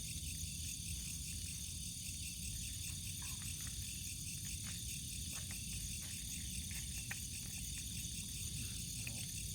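Night insects, crickets among them, chirring steadily in a high-pitched chorus, with a few scattered light clicks over a low steady rumble.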